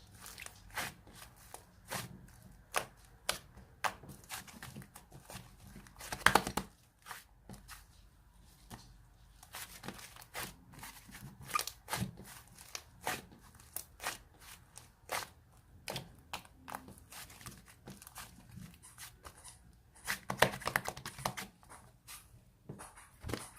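White fluffy slime being squished and stretched by hand, giving irregular sticky clicks and pops, with busier crackling stretches about six seconds in and again near the end.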